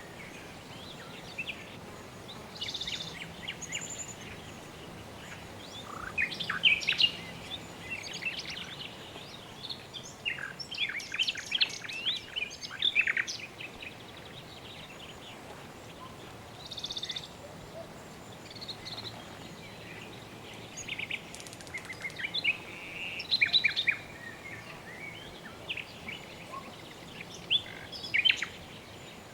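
Birds chirping and trilling in short bursts every few seconds, with several calls overlapping around the middle and near the end, over a steady soft background hiss.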